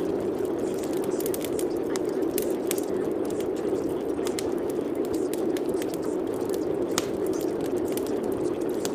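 Steady rain: an even, dull hiss with many scattered sharp drop ticks.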